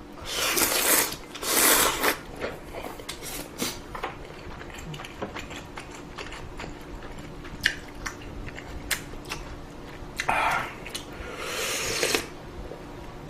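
A person slurping ramen noodles and chewing. Two loud hissing slurps come in the first two seconds and a longer one about ten seconds in, with chewing, small wet mouth sounds and sharp utensil clicks between them.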